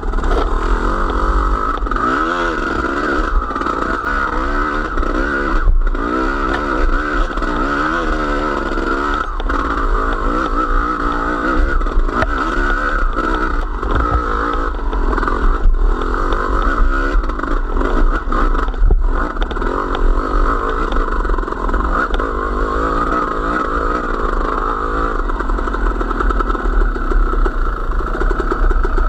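A motor vehicle's engine running while it is driven, its pitch rising and falling, over a steady low rumble with a few knocks and rattles.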